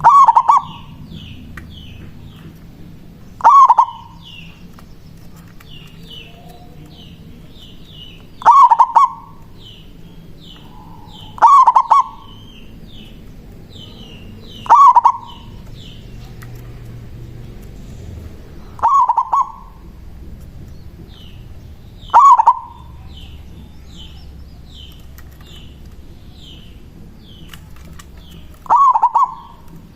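Zebra dove (perkutut) cooing its manggung song in short loud phrases, eight of them a few seconds apart. Between them a small bird chirps quickly and faintly at a high pitch.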